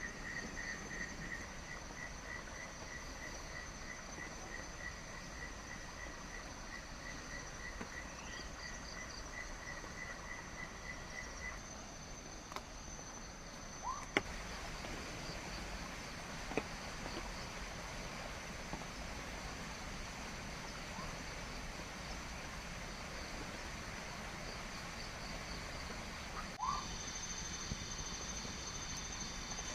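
Frogs and insects calling in a tropical forest. A pulsed call repeats about three times a second and stops about 12 seconds in, over steady high-pitched insect trills and a constant hiss. A few short rising chirps and sharp clicks come and go.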